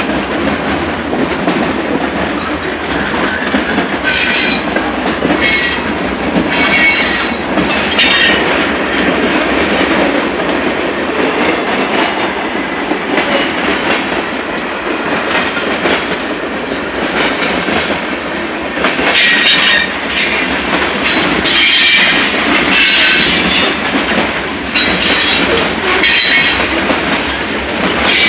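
Freight train cars of hoppers and tank cars rolling past close by: a loud, steady rumble of steel wheels on the rails, with short high wheel squeals now and then, more of them in the second half.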